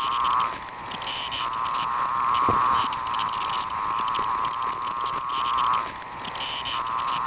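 Chorus of periodical cicadas: a steady, shrill drone at one pitch that fades down briefly twice, about half a second in and again near six seconds.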